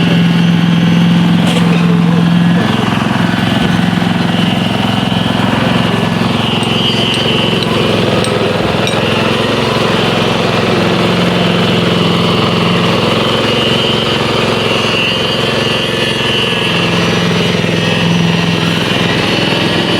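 Engine-driven concrete poker vibrator running steadily during a slab pour, loud, with a constant low hum.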